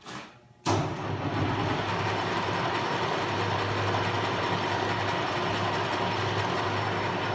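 Sheldon WM56P metal lathe with variable-speed drive starting up: a short click, then under a second in the motor and spindle drive come on suddenly and run steadily with a low hum and a few steady tones.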